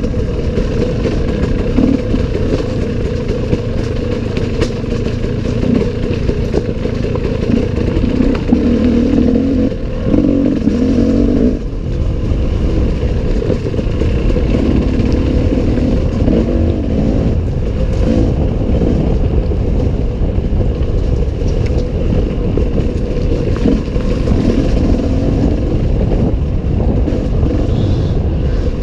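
Enduro dirt bike engine running at varying throttle on a forest trail, heard from the rider's onboard camera.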